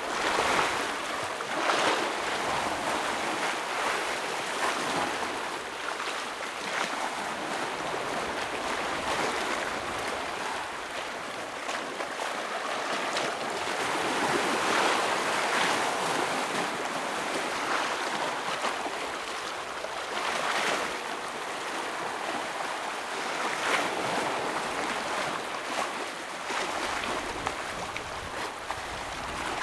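Ocean waves breaking on a rocky shore: a continuous hiss of surf with louder splashing surges every few seconds as waves hit and wash over the rocks.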